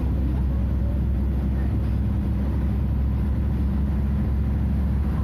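Scania DC09 five-cylinder diesel engine of a Scania F250HB bus running steadily at an even pitch, a low, constant drone.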